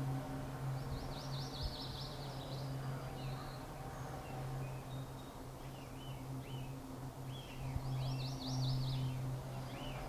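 Songbirds singing outdoors: a quick run of high, descending notes about a second in and again near eight seconds, with scattered single chirps between, over a steady low hum.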